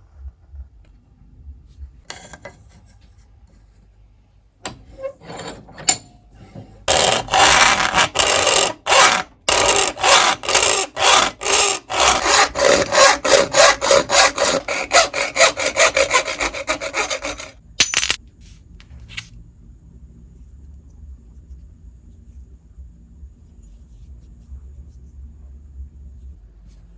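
Rapid back-and-forth strokes of a hand tool cutting or rasping a workpiece, about three a second for roughly ten seconds, after a few scrapes and knocks.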